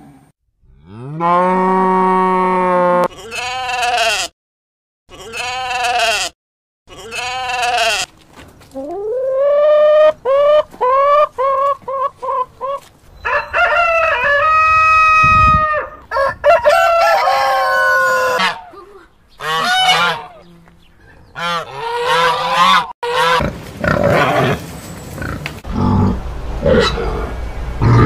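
A string of farm-animal calls one after another, with short silent gaps between them. Chickens are among them: a rooster and hens clucking.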